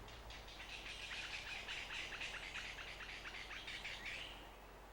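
A bird calling in a fast run of faint, high chirps, about five a second, that fades away near the end.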